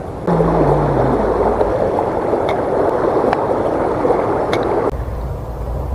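Creek water rushing in a steady, loud wash close to the microphone, starting suddenly just after the beginning and cutting off about a second before the end.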